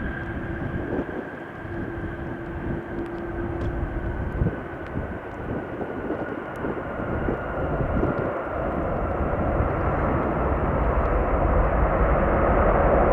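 Jet airliner engines: a high whine that slowly falls in pitch over a rushing noise, growing louder toward the end.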